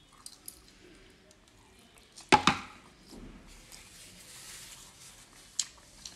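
Close-miked chewing of momos with faint mouth clicks, and a sharp double knock about two seconds in, a drinking glass being set down on the wooden table.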